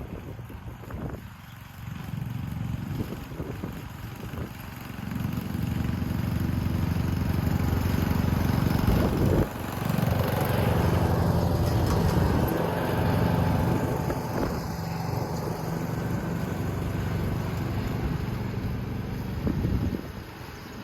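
John Deere S100 riding mower's engine running steadily while mowing, getting louder about five seconds in.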